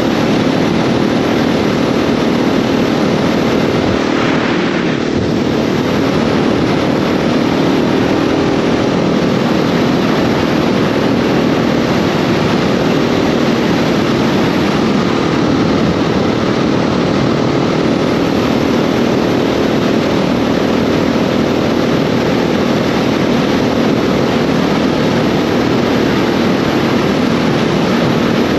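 KTM 690 SMC R's single-cylinder engine running steadily while the bike is under way, with heavy wind rush over the microphone. A brief swell of extra noise comes about four to five seconds in.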